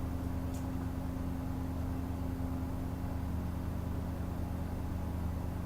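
Steady low hum of an electric motor, a drone with a few held tones, with one faint click about half a second in.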